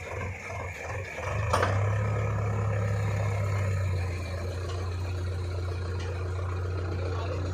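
Diesel engine of heavy machinery running with a steady low hum. It pulses at first, then grows louder about a second in, with one sharp knock just after.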